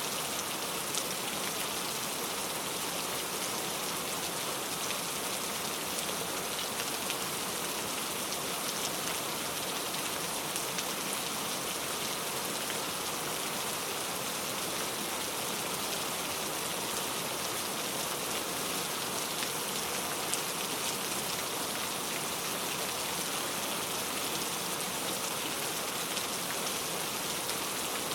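Steady heavy rain falling without thunder, an even hiss with many individual drops pattering on a surface.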